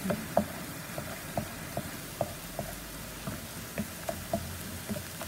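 Shredded onion and chili flakes frying in oil in a nonstick wok, a steady sizzle, while a wooden spatula stirs them, knocking and scraping against the pan about three times a second.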